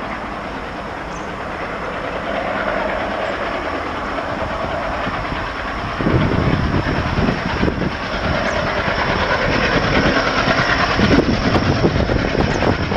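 Express train hauled by twin ALCO WDG-3A diesel locomotives passing at speed: a steady rush of the approaching train, then about six seconds in a sudden jump to a loud, close rumble and clatter of wheels on rail.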